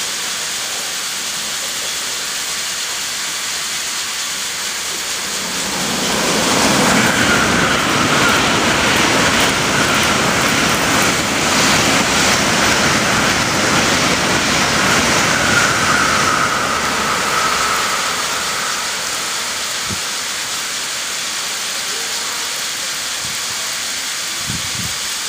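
N700 series Shinkansen passing through the station at speed: a steady hiss from the snow-melting track sprinklers, then the train's noise builds about six seconds in, with a high whine, holds for about ten seconds and fades back to the hiss.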